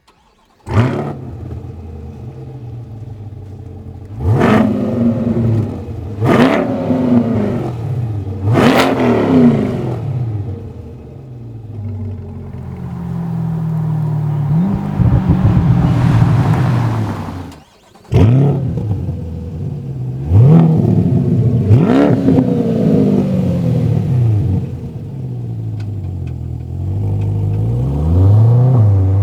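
Chevrolet Corvette C8's 6.2L V8 through an MBRP 3-inch stainless active cat-back exhaust with quad tips. It fires up with a loud flare about a second in and settles to idle. Then come three quick revs and a longer, slower rev. The sound drops out briefly, comes back with another sudden loud flare, and ends with more revs.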